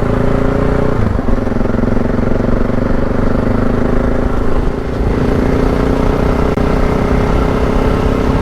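Adventure motorcycle's parallel-twin engine running under way off-road. The engine note steps down about a second in, and there is a brief dip near five seconds before it pulls again.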